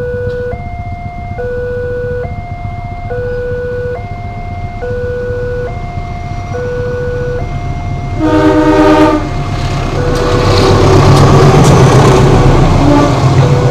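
Railway level-crossing warning alarm sounding its two-tone signal, switching pitch a little more than once a second. About eight seconds in, a train horn sounds loudly for about a second. A train then rumbles loudly past the crossing, covering the alarm.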